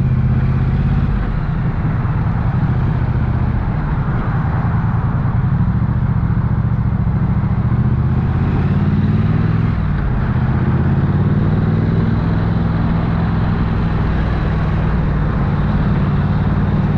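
Triumph Bonneville parallel-twin engine and exhaust running under way at low speed, the engine note rising and falling gently with the throttle.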